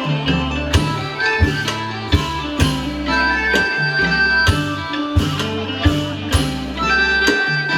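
Isan pong lang band playing lively folk music: plucked and struck melody notes over a steady drum beat.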